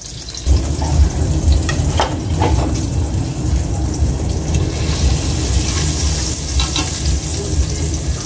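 Vegetables and garlic sizzling in hot oil in a pan, stirred with a utensil that clicks and scrapes against the pan now and then. A low rumble sets in about half a second in and runs under the sizzle.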